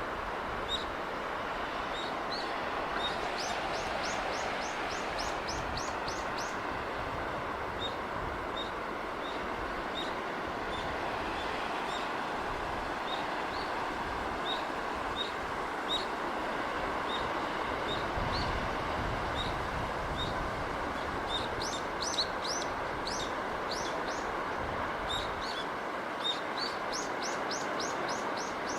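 Steady wash of sea and breeze with small birds chirping over it. Single short chirps come about once a second, with quick runs of rising chirps about three seconds in, around twenty-two seconds and near the end.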